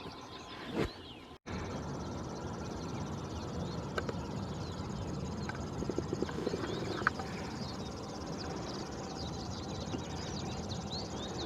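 Many short high bird calls and chirps over a steady outdoor background, with a brief dropout about a second and a half in and a few faint knocks and clicks.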